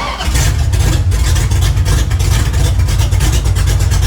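A 1981 Dodge D150 pickup's V8 engine comes in abruptly and runs loud and steady with an even, rapid exhaust pulse.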